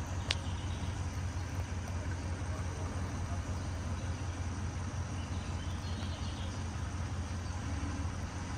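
Vehicle engine running at low speed, a steady low hum, with one short click just after the start.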